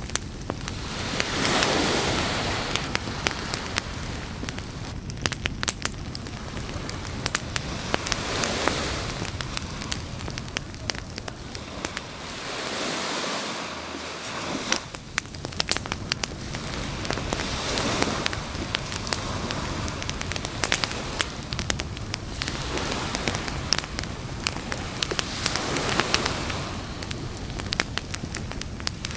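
Campfire crackling with frequent sharp pops, over waves washing up the beach in slow swells that rise and fade every several seconds.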